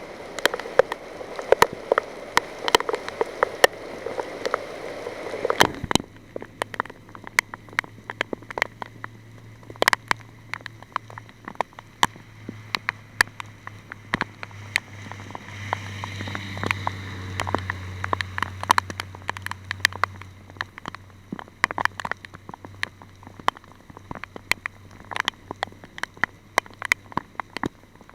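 Rain: large drops striking a surface close by as sharp, irregular ticks over the steady hiss of rainfall. The hiss drops away suddenly about six seconds in, and a low steady hum comes in soon after, strongest past the middle.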